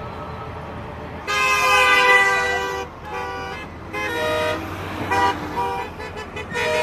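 Vehicle horns honking: one long blast about a second in, then a run of shorter toots.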